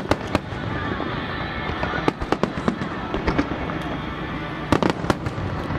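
Fireworks bursting overhead, with clusters of sharp crackling pops coming in several bunches over a continuous rumbling wash of explosions. Music plays underneath.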